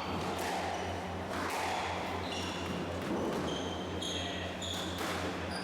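Squash rally: the ball struck about once a second off racket and walls, with short high squeaks of court shoes on the wooden floor between the hits. A steady low electrical hum runs underneath.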